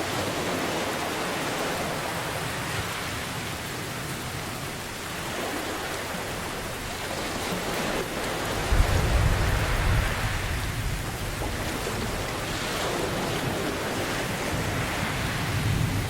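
Steady heavy rain, with a deep rumble of thunder rolling in about halfway through and easing off a couple of seconds later, then rumbling again near the end.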